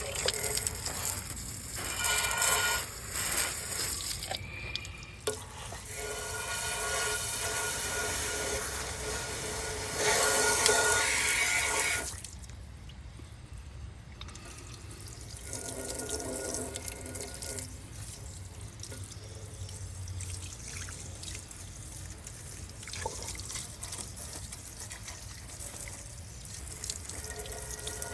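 Water spraying in a steady hissing stream, loudest for several seconds in the middle and then quieter and more broken up.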